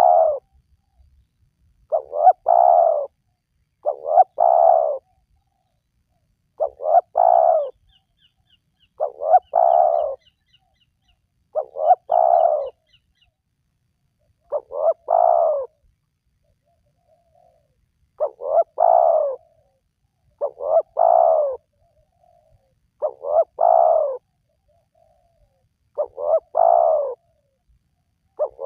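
Spotted dove (tekukur) cooing: the same phrase repeated about every two and a half seconds, each a short note followed by a longer one. A faint high chirping of a smaller bird comes in briefly near the middle.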